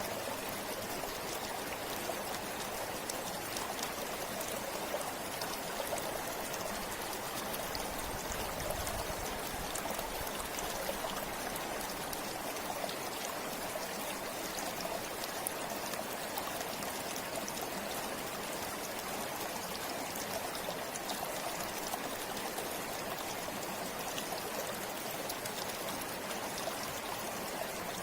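River water flowing steadily over rocks, a continuous rushing with fine splashing and trickling.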